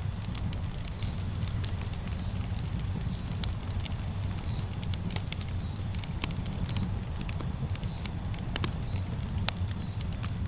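Campfire burning: a steady low rumble with frequent sharp crackles and pops. A short high chirp repeats about once a second.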